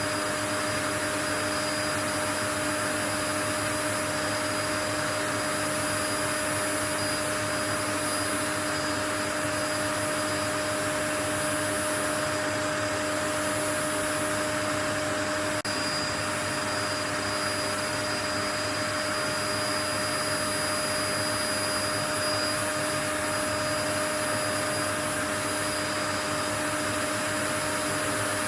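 Steady white noise: an even rushing hiss with a few faint steady tones running through it, unchanging throughout.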